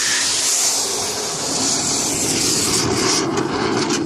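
Garden hose spraying a hard jet of water, a loud steady hiss that eases about three seconds in, leaving a lower splashing rush.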